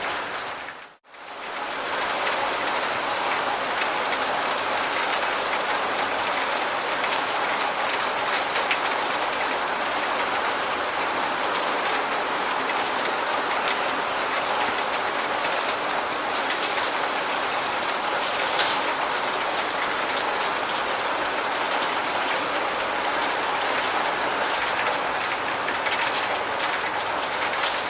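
Steady rain falling, a dense even hiss with a fine patter of drops. About a second in it cuts out for a moment, then comes back at the same level.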